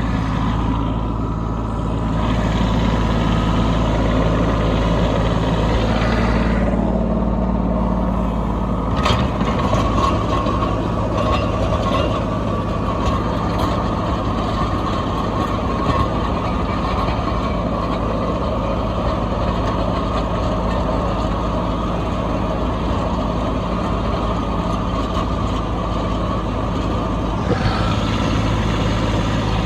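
Kubota B2601 compact tractor's three-cylinder diesel engine running steadily, its note shifting about nine seconds in.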